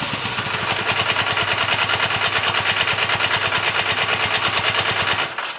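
Suzuki motorcycle engine idling with a rapid, even exhaust pulse; the idle is steady and sounds okay. It stops abruptly about five seconds in.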